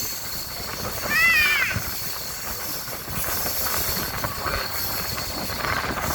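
Indian peafowl giving one loud, wailing, meow-like call about a second in, the pitch rising and then falling, over a steady rushing noise.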